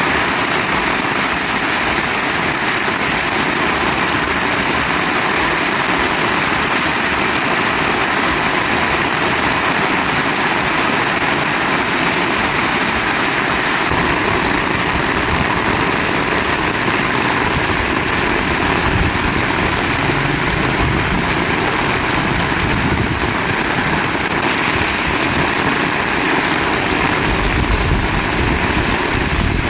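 Heavy rain falling steadily as a dense, even hiss, with low rumbling gusts of wind about two-thirds of the way in and again near the end.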